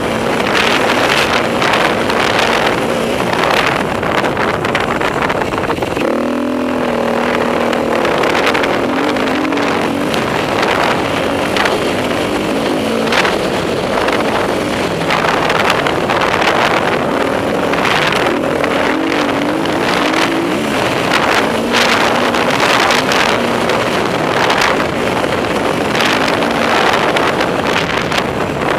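Enduro motorcycle being ridden hard, its engine revving up and falling back again and again as the rider works the throttle and gears, with wind on the microphone.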